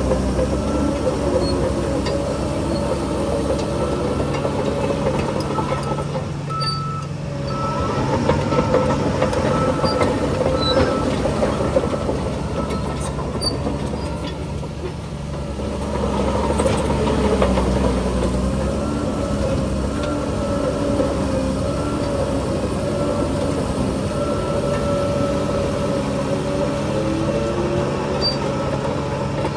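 Shantui DH17C2 crawler bulldozer working: its diesel engine runs under load, rising and falling, while its steel tracks clank and rattle.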